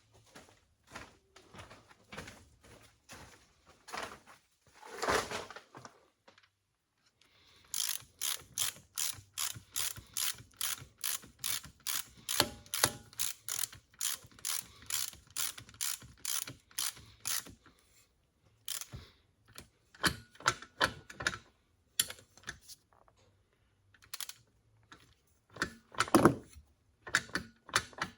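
Hand ratchet wrench clicking in an even run of about three to four clicks a second for some ten seconds, as a bolt is turned, with scattered metal clicks and clunks of tools and parts before and after.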